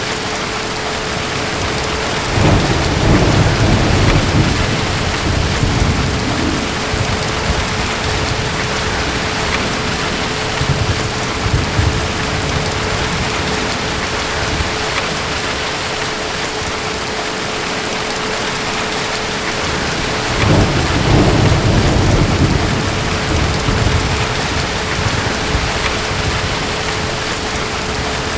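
Steady heavy rain with distant thunder rolling twice, a low rumble a couple of seconds in and again about twenty seconds in, each lasting several seconds.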